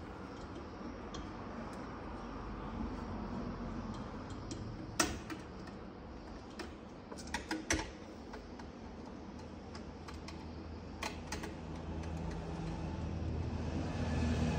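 Scattered sharp metallic clicks and taps from a copper tube cutter and the fridge compressor's copper lines as they are cut: one about five seconds in, a quick cluster a little later, and a pair near the two-thirds mark. Under them runs a steady hum, and a low rumble builds near the end.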